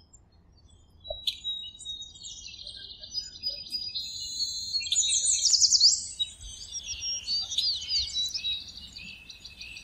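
Several songbirds singing and chirping: high trills and quick repeated sweeping notes that start about a second in, loudest midway.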